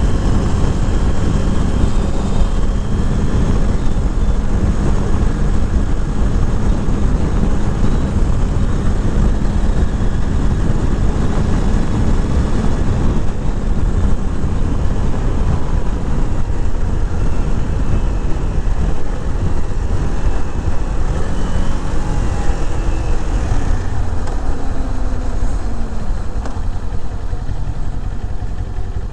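A 2021 Kawasaki Z400's parallel-twin engine running under way, under heavy wind rush on the mic. The engine note falls in pitch a few times in the later part as the bike slows.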